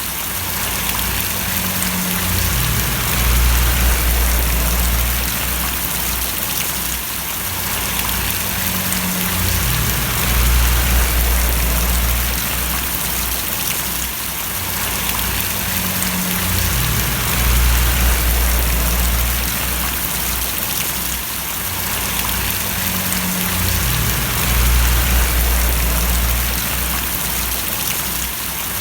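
Rain falling and splashing in a steady hiss, with a low rumble that swells and fades about every seven seconds.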